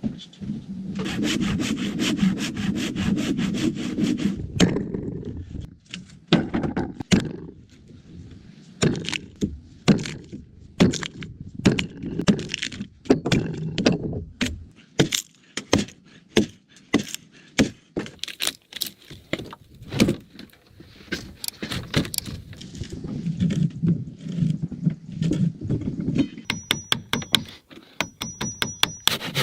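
Hand woodworking on solid logs: a handsaw cutting in quick, steady strokes near the start and again towards the end, with a long run of separate sharp wooden knocks and strikes in between.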